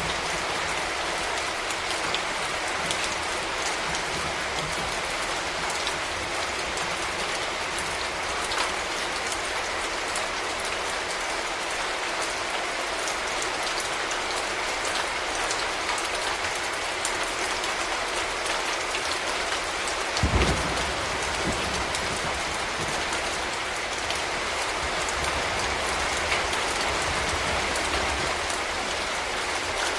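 Steady rain falling on hard surfaces, an even hiss with scattered individual drops ticking. About two-thirds of the way through comes a brief low thump, followed by a faint low rumble.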